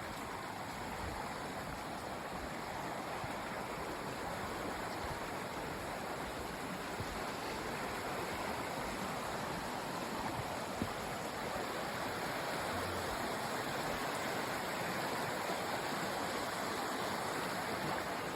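Mountain creek water running over rocks: a steady rushing that swells a little after the first few seconds.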